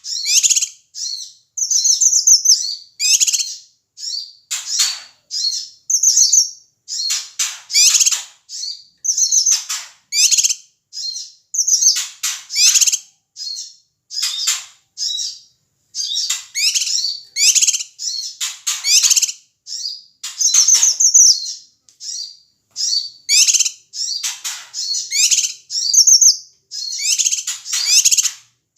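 Cucak kinoi leafbird calling loudly in rapid, harsh chattering bursts, high-pitched and packed several a second with only short breaks: the agitated "ribut" call used to provoke other birds into singing.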